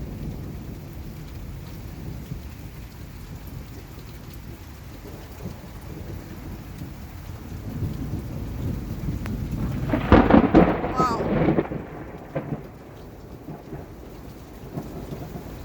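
Steady rain falling with low rolling thunder. The thunder swells to a loud peal about ten seconds in, then rumbles away over a couple of seconds.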